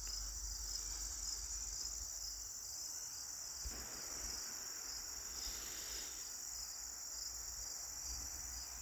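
Insects chirring in a steady, high, evenly pulsing drone, with a faint rustle from about four to six seconds in.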